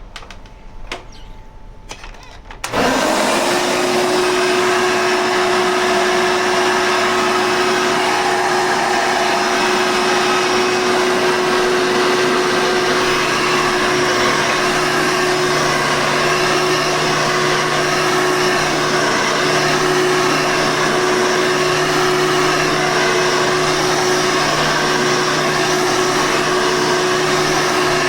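Hoover Tempo vacuum cleaner: a few faint clicks, then about three seconds in the motor switches on and runs steadily with a constant hum. The motor has just been taken apart and serviced to deal with a bearing noise.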